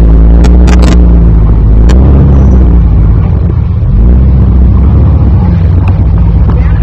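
Jeep Wrangler engine running loud under load as it crawls up a steep dirt ledge, its pitch rising and falling as the throttle is worked. A few sharp knocks come in the first second.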